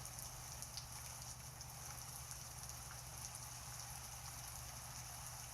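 Faint, steady rain ambience, an even hiss of falling rain with no single drops standing out, over a low steady hum.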